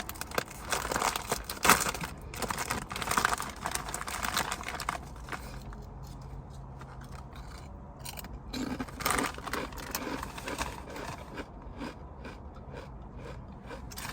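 Kettle-cooked jalapeño potato chips being bitten and chewed with crisp crunches, dense for the first five seconds or so and sparser after that.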